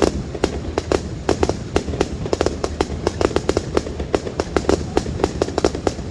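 Aerial fireworks display: a rapid, irregular volley of sharp bangs and crackles, several a second, over a steady low rumble.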